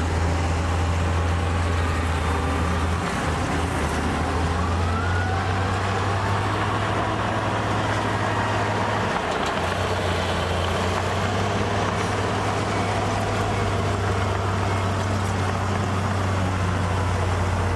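Heavy construction machine's diesel engine running steadily under load, with a faint high whine that rises and falls in pitch over the deep engine hum.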